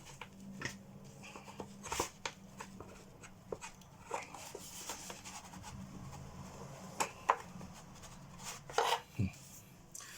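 Scattered light clicks and scrapes of a screwdriver working at a hidden motor-mounting screw inside a 1970s Hoover Junior U1036 vacuum cleaner hood, over a faint steady hum. The screw's cross-head is stripped, so the screwdriver cannot turn it.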